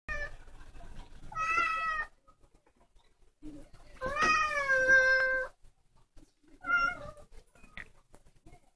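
A young black cat meowing four times. The third meow is the longest, about a second and a half, and falls in pitch before holding steady.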